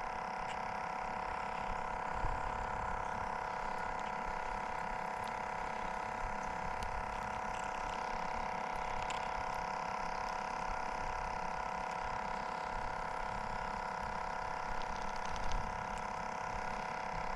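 A steady, unchanging hum made of several held tones, with a few faint clicks about two seconds in and again near the end.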